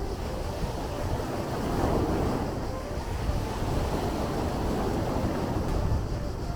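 Sea waves: a continuous rushing of surf that swells and eases, with a low wind rumble on the microphone underneath.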